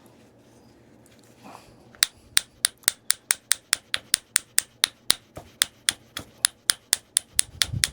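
A quick, even run of light, sharp taps, about four a second, starting about two seconds in: a flintknapping tool tapping on a piece of Tallahatta quartzite. A duller knock comes near the end.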